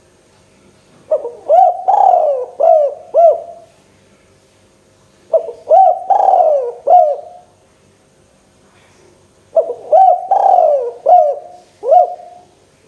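Spotted dove cooing: three phrases of four or five notes each, a few seconds apart.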